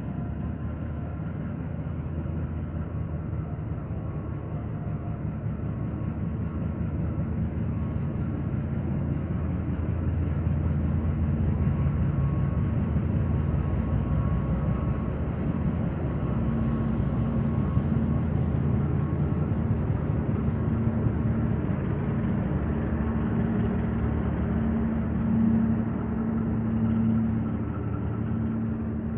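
Diesel locomotive's engine running as it passes, a low hum with several steady tones that grows louder about eight seconds in as the locomotive goes by, followed by the rumble of passenger coaches rolling past.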